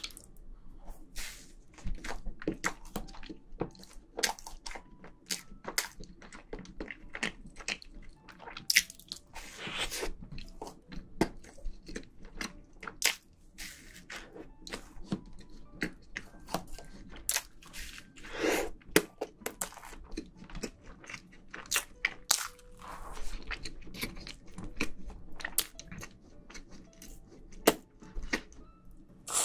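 Close-miked chewing of a soft cake made to look like a dish scrub sponge and topped with whipped cream: a steady stream of small mouth clicks and smacks as it is bitten and chewed.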